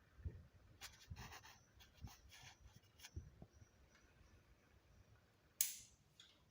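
Faint handling noises: a few soft knocks and short rustling clicks over the first three seconds, then one sharp scraping click about five and a half seconds in, the loudest sound.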